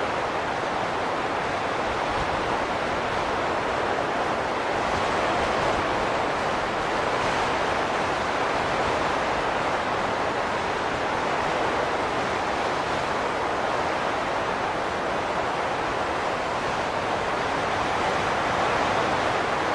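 Steady rushing wind, a dense noise centred in the mid range that swells and eases slowly without gusting breaks.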